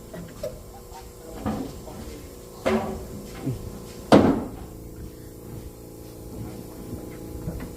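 A few separate knocks and thumps, the loudest about four seconds in, over a steady low hum.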